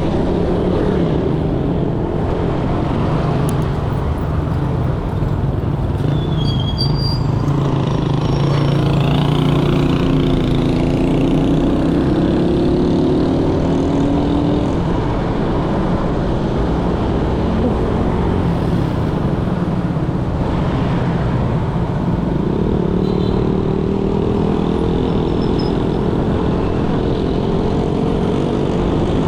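Motorcycle engine running under way in dense street traffic, its pitch rising and falling as the bike speeds up and slows, over a steady hum of traffic and wind.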